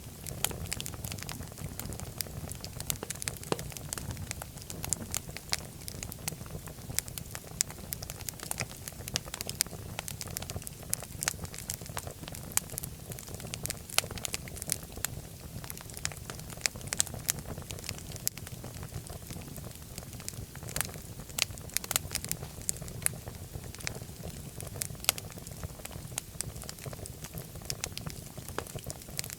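Wood fire burning in a fireplace: a steady low rumble of the flames with frequent, irregular crackles and pops.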